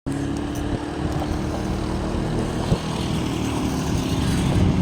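Small boat engine running steadily, with a single knock about two and a half seconds in.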